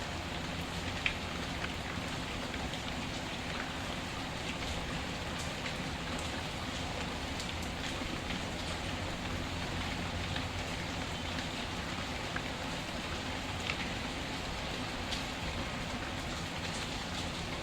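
Steady rain falling, with a few sharp pops and crackles from a wood fire scattered through it.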